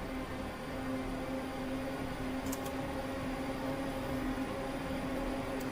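Synthesized server cooling fan, made in the Thor synthesizer from a noise oscillator with reverb and no samples: a steady whirring hiss with a held hum. Two copies play at once, slightly detuned against each other for contrast, like several rack-server fans that are not in tune.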